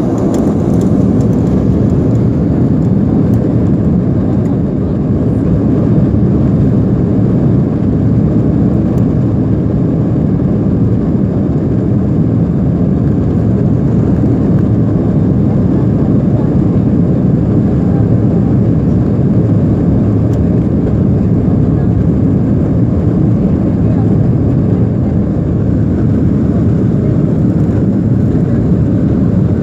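A passenger airliner taking off: a loud, steady rumble of its engines and rushing air, even throughout with no rise or fall in pitch.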